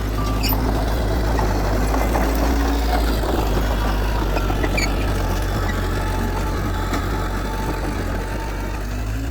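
Heavy diesel earthmoving machinery running steadily with a deep, continuous engine rumble.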